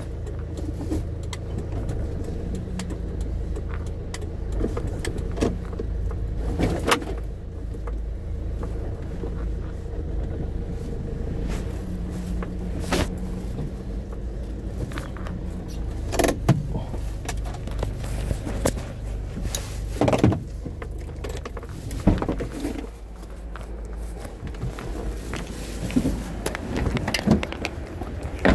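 A motor vehicle running steadily on the road, a low engine hum, with a few sharp knocks or rattles now and then.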